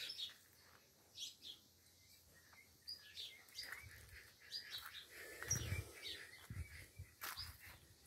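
Birds chirping faintly with scattered short calls, and a soft low thump a little past halfway through.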